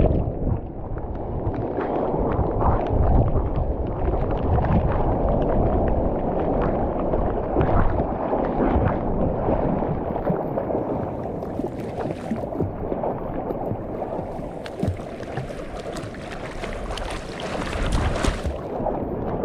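Seawater sloshing and gurgling around a surfer floating in the sea, with gusty wind on the microphone. A brighter hiss joins in about halfway through.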